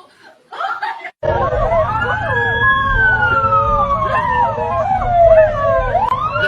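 A wailing siren that climbs quickly, falls slowly over about four seconds, then climbs again near the end, over a steady low rumble, with other wavering tones weaving beneath it. It starts suddenly about a second in, after brief voice sounds.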